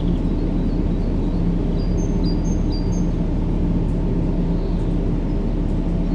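Steady low rumbling white noise with a faint hum running under it. A bird chirps a quick series of short high notes about two seconds in.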